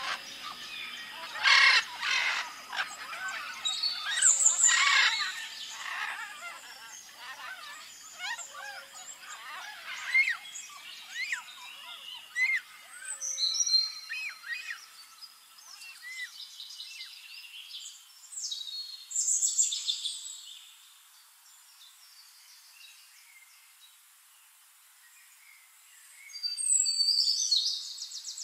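Many birds chirping and calling, with short arching whistled calls and a few louder harsh bursts. The calls thin to a faint hush for several seconds before a burst of chirping near the end.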